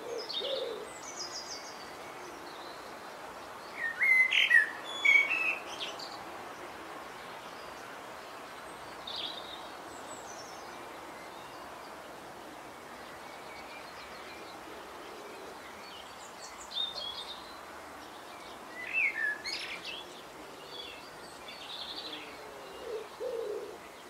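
Small birds chirping and singing in short high phrases every few seconds, loudest about four seconds in and again near the twenty-second mark, over a steady outdoor hiss.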